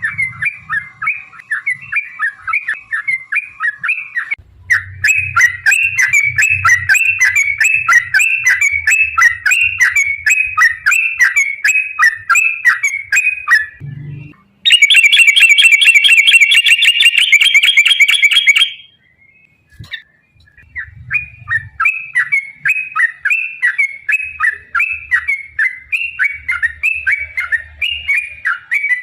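Yellow-vented bulbuls (trucukan) singing a long run of quick, bubbling repeated phrases. About halfway through, a louder, higher, dense trill takes over for roughly four seconds, then there is a brief pause before the bubbling phrases resume.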